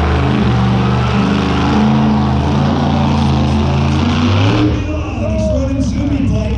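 Monster truck engine running loud, its revs held and shifting in steps, with a change about three-quarters of the way through.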